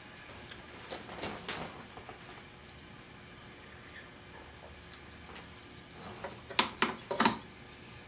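Handling clicks and knocks from the wire recorder being set up, a few about a second in and a louder cluster near the end, over a faint steady hum.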